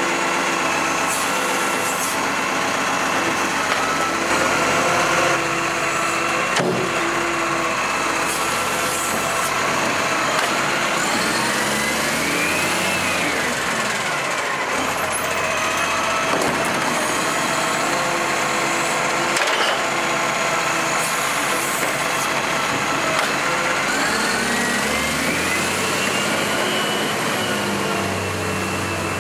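MacDonald Johnston GenV garbage truck's diesel engine running, rising in pitch and falling back twice, about a third of the way in and again near the end.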